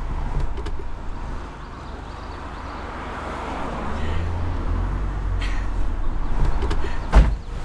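Car engine running low and steady, swelling a little about four seconds in, with one sharp thump near the end.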